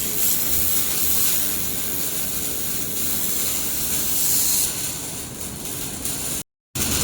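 Air-cooled handheld laser welder unit running with a steady hiss of rushing air. The sound cuts out completely for a moment near the end.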